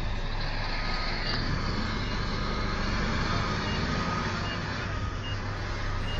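Heavy vehicle engine running steadily, with faint short beeps about once a second.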